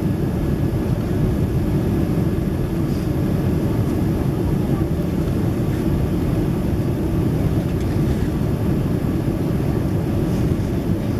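Steady cabin noise of a Boeing 767-300ER airliner in flight: an even, unchanging rumble of engines and airflow.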